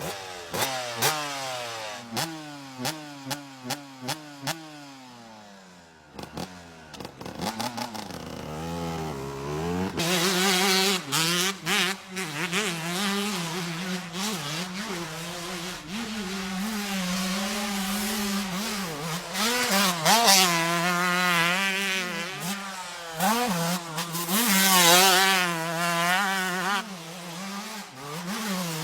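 2006 Suzuki RM125's single-cylinder two-stroke engine ridden hard, revving up and down. For the first few seconds the pitch falls repeatedly with sharp cracks; after a short lull the engine climbs back up and holds a high rev that wavers with the throttle.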